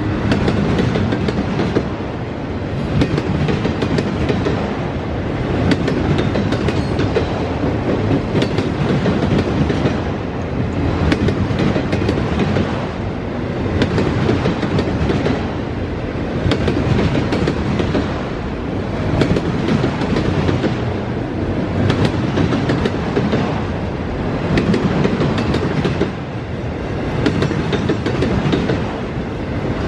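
Norfolk Southern freight train rolling past close by: a steady rumble of wheels on rail, with clicks of the wheels going over rail joints. The loudness rises and falls every few seconds as the cars go by.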